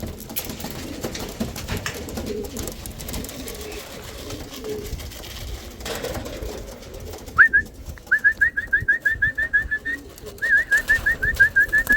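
Pigeons cooing softly, then from about seven seconds in a fast trilling whistle of short rising notes, about six a second, with a brief break near ten seconds. The whistle is the keeper's call, which tipplers respond to at feeding.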